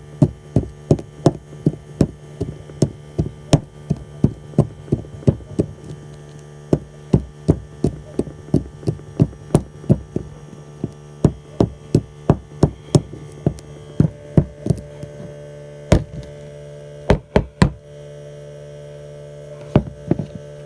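Sharp knocks repeating about twice a second over a steady low hum, with a few louder, spaced-out knocks near the end.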